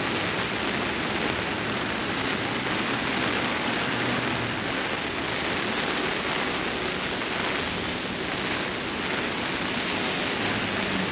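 Heavy rain falling steadily on an umbrella overhead and on the wet pavement and street.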